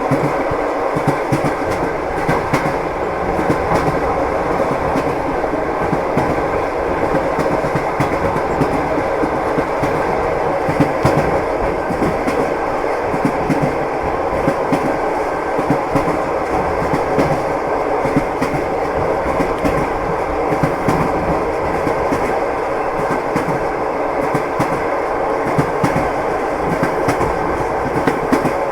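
Train wheels clattering over the rail joints: a steady rumbling run of the train with frequent short clicks and knocks throughout.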